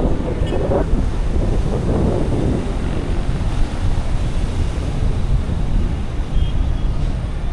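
Steady wind rushing over the microphone during a tandem paraglider flight, heard as a continuous low rumble of moving air.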